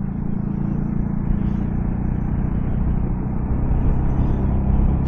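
Yamaha XSR155 motorcycle's single-cylinder engine running at a steady pace while riding, with a low hum of engine tones under road and wind noise that grows slightly louder.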